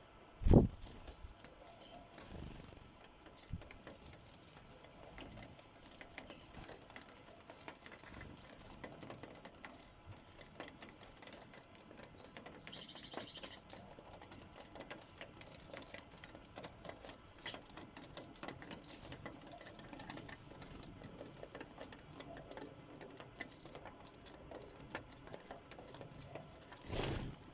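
Sparrows pecking and hopping at a bird feeder: a steady scatter of light, irregular taps and clicks. A sharp thump about half a second in is the loudest sound, with another bump near the end.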